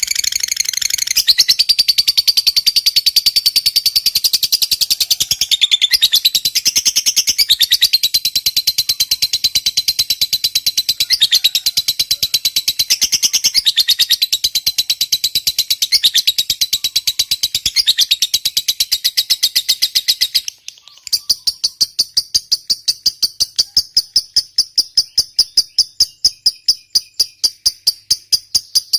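Lovebird giving a long 'ngekek' chatter, a fast, high-pitched run of repeated notes. It breaks off briefly about two-thirds of the way in, then starts again with the notes more evenly spaced.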